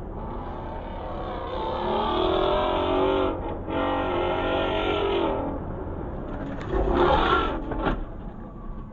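Car engine running hard, its pitch wavering up and down. A louder rush of noise comes about seven seconds in, followed by a couple of sharp knocks.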